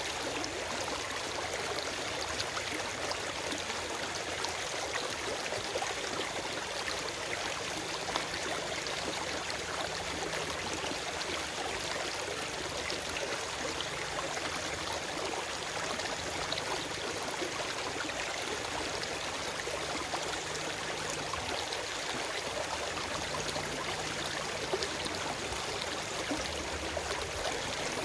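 Forest stream flowing over stones: a steady rush of water with small splashes and gurgles.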